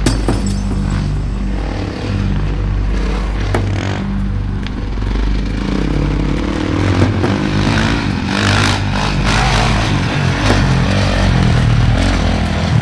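Motocross motorcycle engines running hard, their pitch stepping up and down with throttle and gear changes, with scattered sharp clicks and knocks.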